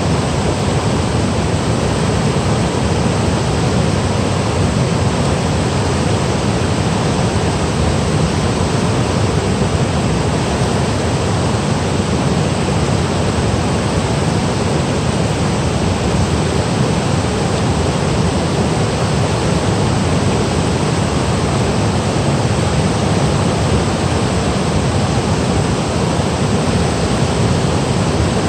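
Mountain valley stream rushing and cascading over rocks in a small waterfall: a loud, even, unbroken rush of water, heaviest in the low rumble.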